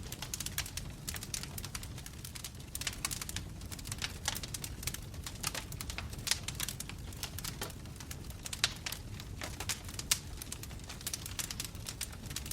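Wood fire burning in a fireplace: dense, irregular crackling and popping of burning logs over a steady low rumble of the flames, with a few sharper pops standing out about six, eight and a half and ten seconds in.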